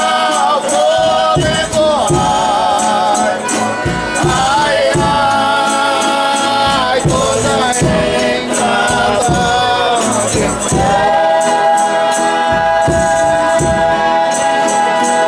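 Folia de Reis singers chanting a verse in harmony over a steadily shaken and struck tambourine. About ten seconds in, the voices settle into one long held note that lasts until near the end.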